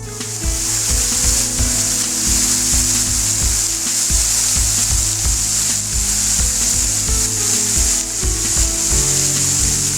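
Steady rush of water from a waterfall, a loud even hiss, with background music and a regular low beat underneath.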